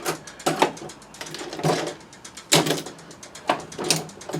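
Irregular clicks, knocks and scrapes of hand tools and metal parts being handled while a pressure washer is taken apart.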